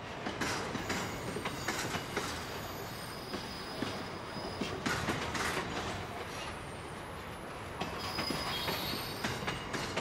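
Intermodal container wagons of a long freight train rolling past, wheels knocking and clattering over the rail, with faint high-pitched wheel squeal about three seconds in and again near the end.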